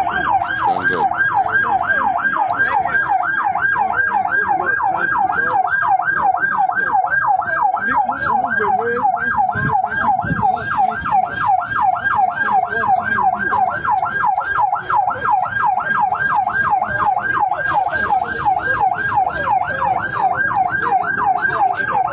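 Emergency vehicle siren in a fast yelp, its pitch sweeping up and down about three times a second without a break, over low background noise.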